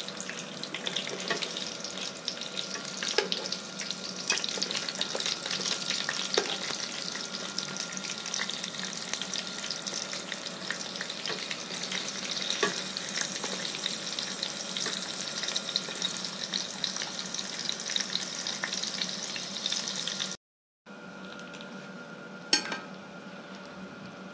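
Strips of dried snake meat sizzling and crackling in hot oil in a pan, with scattered sharp pops. About three-quarters of the way through the sound breaks off for half a second and then goes on more quietly, with one loud click soon after.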